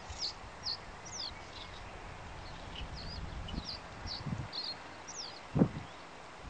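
Small birds chirping, a string of short high notes and quick downward-sweeping calls, over a low rumble. One thump stands out about five and a half seconds in.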